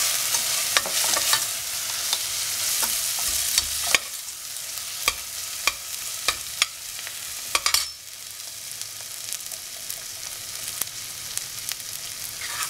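Onions, tomato and chilli powder sizzling in oil in a stainless steel pressure cooker, stirred with a metal ladle that scrapes and clicks sharply against the pot.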